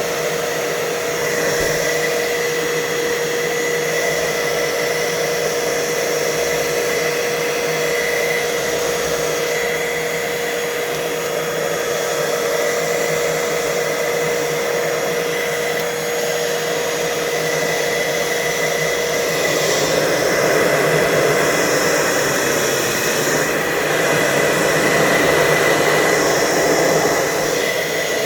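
Hoover Total Home Pet upright vacuum running at full suction, its hose sealed tight against an anemometer: a steady motor whine over a loud rush of air. About twenty seconds in, the whine drops out and the rush of air grows louder.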